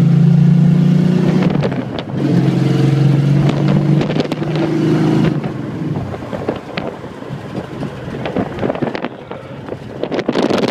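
1964 Plymouth Savoy's engine pulling hard, heard from inside the cabin. It is loud and steady, with short breaks about one and a half and four seconds in as it shifts up through the gears. About five and a half seconds in it drops to a quieter, rougher run with road and wind noise.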